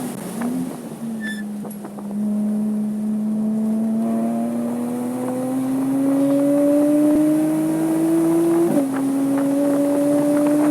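Porsche 987.2 Cayman S 3.4-litre flat-six on track: two quick throttle blips on downshifts, then full-throttle acceleration with the engine note climbing steadily, an upshift about nine seconds in that drops the revs sharply, and the engine pulling hard again.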